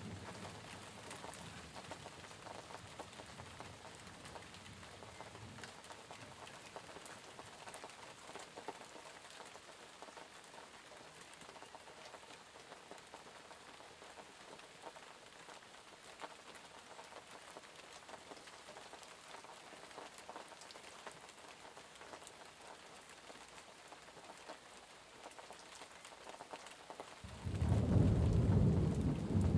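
Steady rain falling, with a sudden loud rumble of thunder breaking in near the end.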